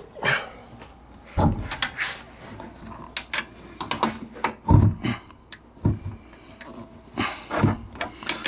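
Irregular knocks, clunks and clicks as a Jeep XJ door is shifted and worked to line up with its hinges, with a few heavier thumps.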